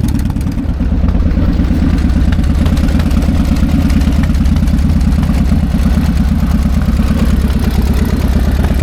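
An engine running steadily at an even speed: a loud, dense low pulsing with little higher sound above it.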